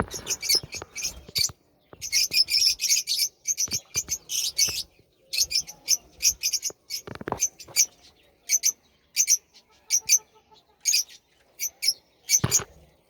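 Budgerigars chirping and chattering in rapid clusters of short, high calls, with a couple of brief low knocks.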